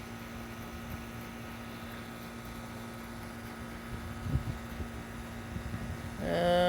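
A steady mechanical hum with a faint low rumble underneath. Near the end a short, steady pitched sound comes in.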